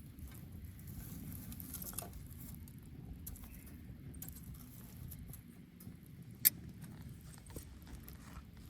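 Wood bonfire burning: a low steady rumble of flames with scattered small crackles, and one sharp, loud pop about six and a half seconds in.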